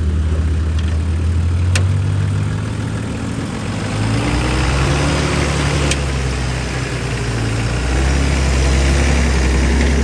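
Four-wheel drive's engine running at low revs on a rough track, its note rising and falling a little over tyre and road noise, with two sharp clicks about two and six seconds in.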